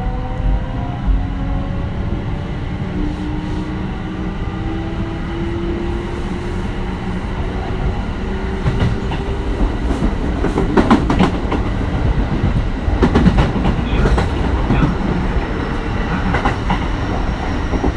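Kintetsu 1420 series train with a Mitsubishi GTO-VVVF inverter, running under the rumble of its wheels, with the inverter's tones slowly rising in pitch during the first few seconds as the train gathers speed. From about halfway in, groups of rail-joint clatter come from the wheels.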